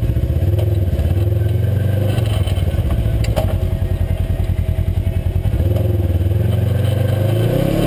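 UTV engine running under way, its pitch rising and falling with the throttle, with a sharp knock about three and a half seconds in.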